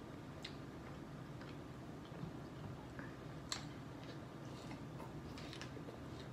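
Faint, scattered wet clicks of mouth sounds from eating at close range: lip smacks and chewing, with one sharper click about three and a half seconds in.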